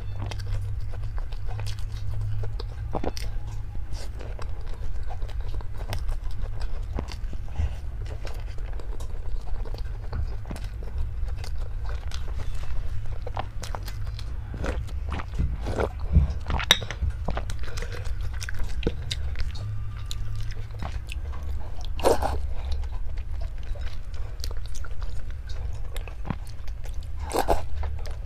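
Close-up chewing and crunching of food, with many short crackles and a few louder crunches in the second half.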